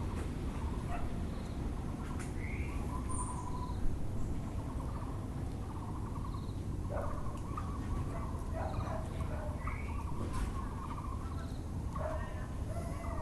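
Mixed birdsong over a steady low city rumble. It includes a Taiwan barbet (Müller's barbet) calling in rapid repeated notes, along with short chirps from other birds and a high short note that recurs about every second and a half. A brief sharp knock comes about four seconds in.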